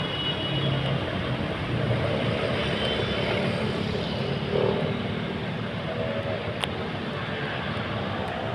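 Street traffic: vehicle engines running under a steady wash of noise, with one sharp click about two-thirds of the way through.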